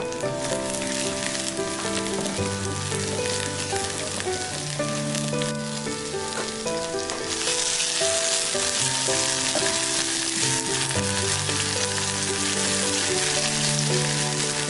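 Chopped garlic, scallion and lemon leaves sizzling in hot oil in a clay pot as they are stirred with a wooden spatula. The sizzle grows louder about seven seconds in. Soft background music plays underneath.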